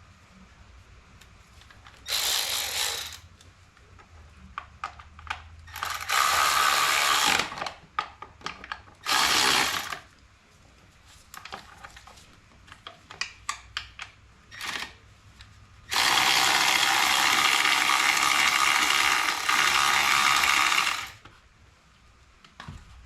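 Fender bolts being run in with a small ratchet-type tool: four bursts of steady whirring, the longest about five seconds near the end, with quick ratchet clicks in between.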